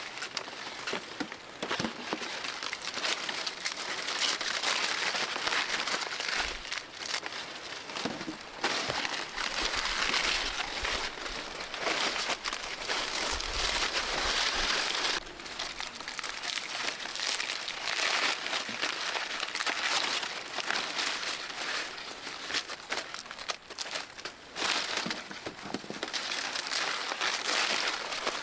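Continuous dry rustling and crinkling, uneven in loudness, with a few light knocks.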